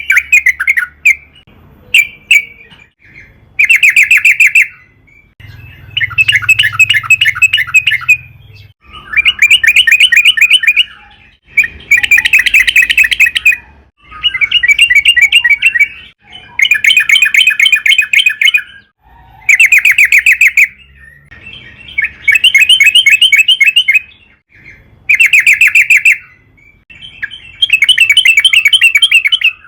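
Yellow-vented bulbul (trucukan) singing in its long rolling phrases: loud, rapid bubbling chatter about two seconds at a time, repeated about a dozen times with short pauses between.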